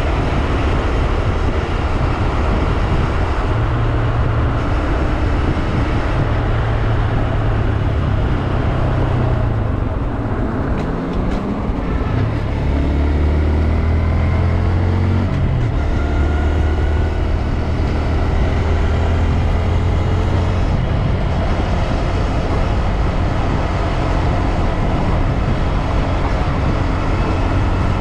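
Honda Grom's 124 cc single-cylinder engine running under way, with heavy wind rush. About ten seconds in the engine note dips, then climbs steadily over the next few seconds as the revs come back up.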